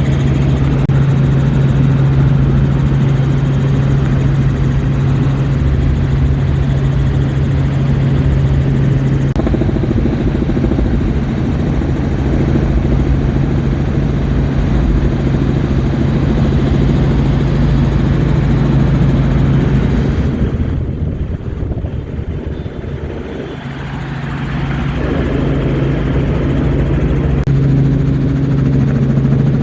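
Helicopter in flight heard from inside the cabin with the doors off: a loud, steady low rotor and engine hum mixed with rushing wind noise. It briefly gets quieter a little after two-thirds of the way through, then returns.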